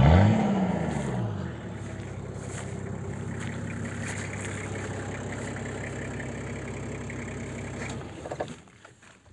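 Car engine revving briefly at the start, its pitch rising and then falling back. It then runs steadily and fades out near the end.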